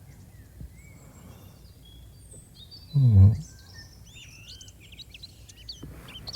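Small birds chirping and twittering over a soft steady ambient bed, the chirps growing busier toward the end. About three seconds in comes a single brief low hum from a man's voice, louder than the birds.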